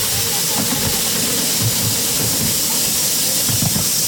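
Miniature 7¼-inch gauge live steam locomotive hissing steam steadily, with an uneven low rumble underneath.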